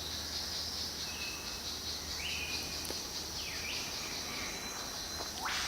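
Rainforest ambience: insects trilling steadily in a high, pulsing chorus, with a few faint whistled bird notes and a fast rising whistle near the end.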